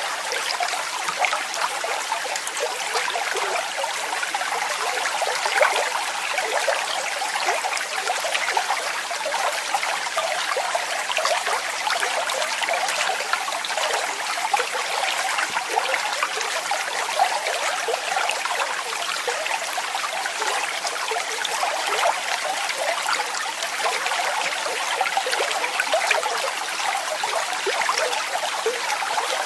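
Waterfall splashing steadily, a bright, even rush of falling water with many small splashes and little low rumble.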